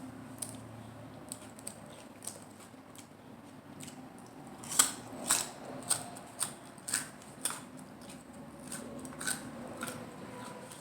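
Close-up chewing of crisp lettuce-wrapped salad: a string of sharp, crisp crunches, loudest and about two a second from about halfway through, with softer wet mouth sounds between.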